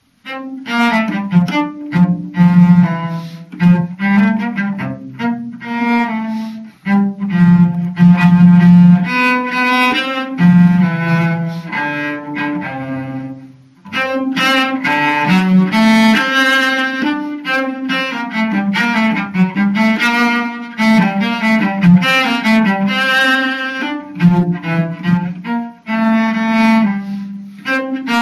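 Cello playing a grade 3 exam piece as a melody of bowed notes, with a short break between phrases about halfway through.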